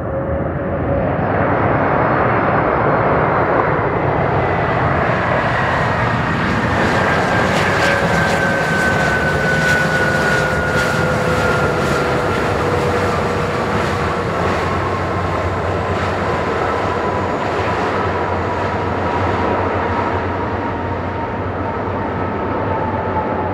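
Jet engines of a Singapore Airlines Airbus A330-300 passing close by, a loud rushing noise with an engine whine that falls slowly and steadily in pitch.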